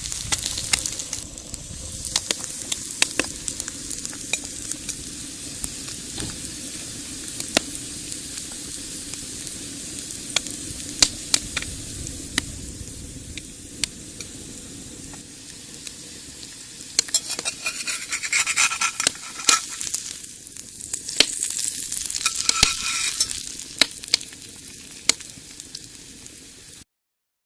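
Egg frying in a pan over a wood-fired rocket stove: a steady sizzle with frequent sharp pops and crackles, growing busier and louder about two-thirds of the way through, then cutting off abruptly just before the end.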